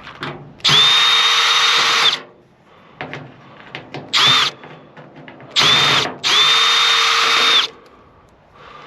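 Power drill-driver spinning in four bursts, two of about a second and a half and two short ones, each a steady whine that starts and stops abruptly, as it backs screws out of a microwave oven's casing. Light clicks and handling noises fall between the bursts.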